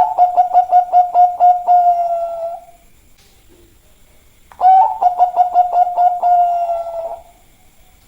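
Bangkok-type zebra dove (perkutut) cooing: two song phrases about four and a half seconds apart. Each is a rapid stuttering run of coos that ends in a long drawn-out note falling slightly at the end.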